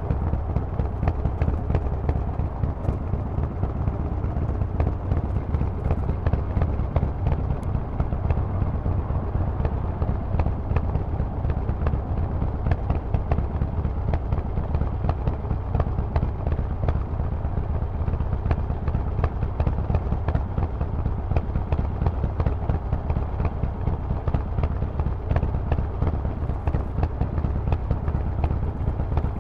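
Harley-Davidson Forty-Eight's 1200 cc V-twin, breathing through a Vance and Hines exhaust, running steadily with a deep, even pulsing beat and no revving.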